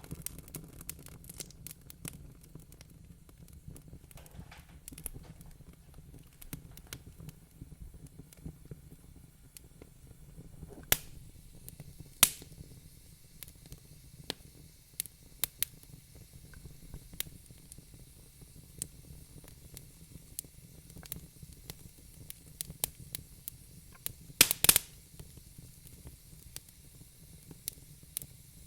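Wood fire crackling in a fireplace: irregular small pops and ticks, with a few louder snaps, two about eleven and twelve seconds in and a quick cluster near the end, over a faint steady low rumble.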